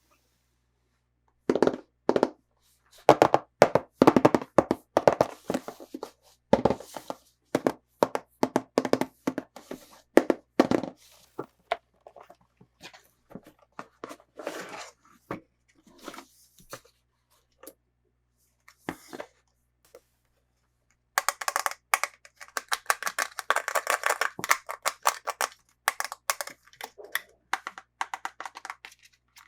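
Hands unboxing toy packaging: an irregular string of knocks, taps and cracks, then a dense run of rapid clicking and crackling from about 21 seconds in.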